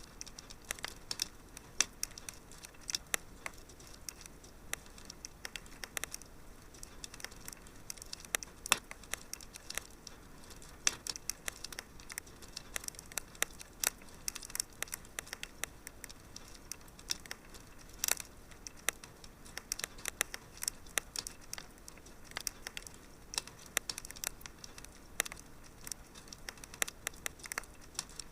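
Wood fire crackling in a fireplace: dense, irregular sharp pops and snaps over a faint steady hiss.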